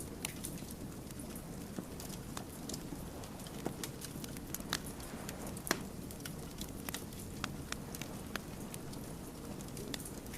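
Wood fire burning, with irregular crackles and sharp pops from the burning logs over a steady low rush of flame; the loudest pop comes a little past the middle.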